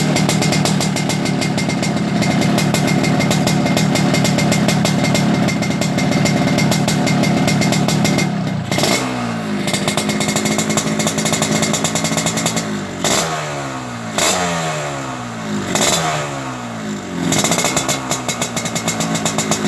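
Yamaha RX-King's two-stroke single-cylinder engine through an aftermarket racing exhaust, held at steady high revs for about eight seconds. Then it drops and is blipped several times, each rev falling back in pitch.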